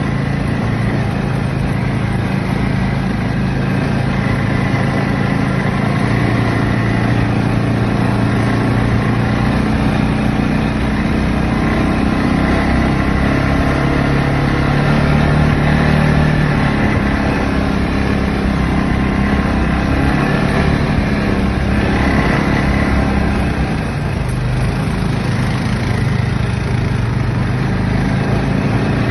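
ATV engine running continuously, its pitch shifting a little with the throttle, easing off briefly about four-fifths of the way through.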